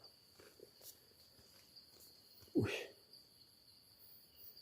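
Crickets chirring faintly and steadily at a high pitch in the night. About two and a half seconds in, a short, louder sound sweeps quickly upward in pitch.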